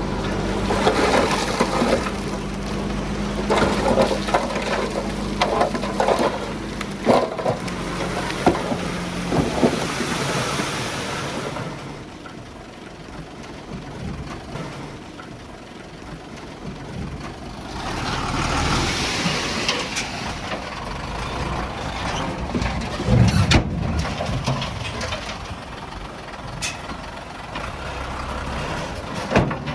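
Heavy earthmoving machinery working stone: a diesel engine running with rattling and clanking for about the first twelve seconds, then quieter, with a long hissing rush about two-thirds of the way in and a few sharp knocks near the end.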